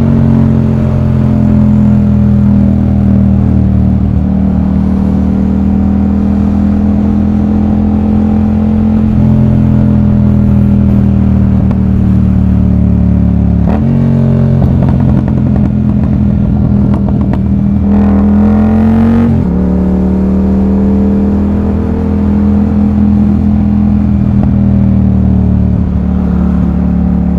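Yamaha MT-07's parallel-twin engine running through an aftermarket exhaust while riding, holding a steady note with slow shifts in pitch. About halfway through the sound turns rough and crackly for several seconds, and the revs rise, then drop back to a steady note.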